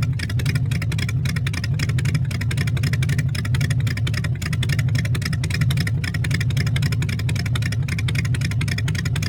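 An engine running steadily with a fast, even exhaust beat.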